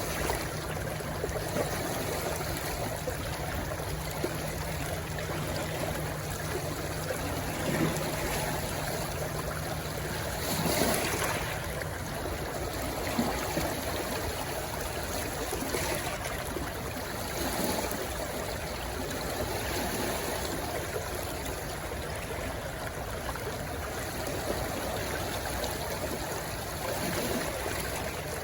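Stream water rushing steadily where it runs into the sea, with a brief louder surge of water about eleven seconds in. A faint low steady hum sits under the water for the first ten seconds or so.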